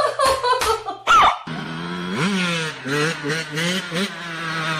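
Motorbike engine revving: after a few short loud sounds near the start, the engine note climbs, then rises and falls several times in quick succession.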